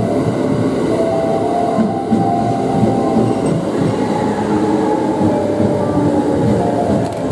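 Thunderbird limited express electric train running past the platform: a steady loud rumble of wheels on rail, with short whining tones that come and go.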